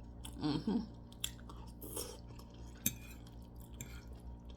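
A person chewing and eating food close to the microphone, with soft mouth and crunch noises and a sharp click about three seconds in. A brief voiced murmur comes just under a second in.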